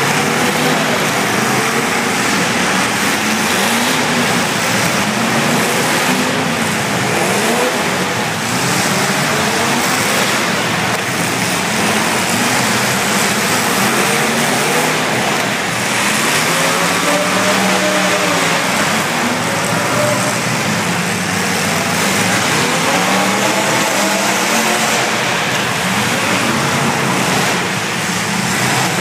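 Several demolition derby car engines running and revving together, their pitches rising and falling over one another under a steady din.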